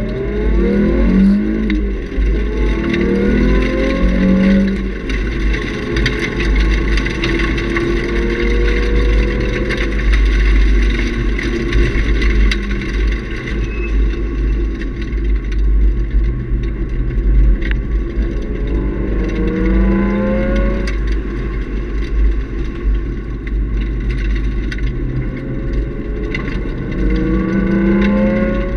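Nissan 350Z's 3.5-litre V6 with a Nismo cat-back exhaust, heard from inside the cabin, revving up in several hard pulls, each rising in pitch with gear changes between, over a steady deep rumble of road and wind noise.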